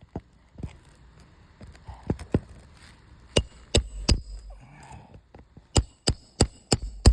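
Sharp hammer blows with a metallic ring, a few scattered knocks followed by two quick runs of about three strikes a second, typical of driving or prying roofing nails during a shingle repair.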